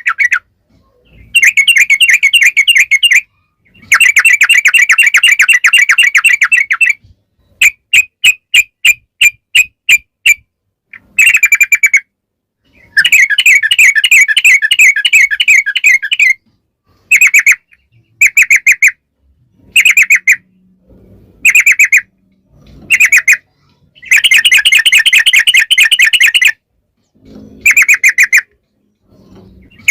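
Yellow-vented bulbul (trucukan) singing its long, fast chattering 'ropel' song in bursts of rapid notes, broken by short pauses. About eight seconds in comes a run of separate notes at about four a second.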